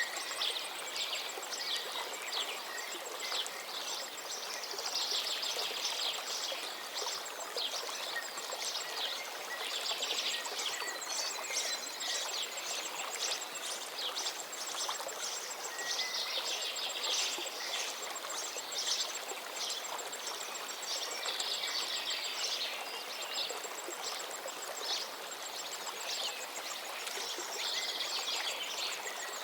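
Steady running water of a gently flowing stream with several birds singing over it, in repeated trills and chirps, along with a faint high insect buzz.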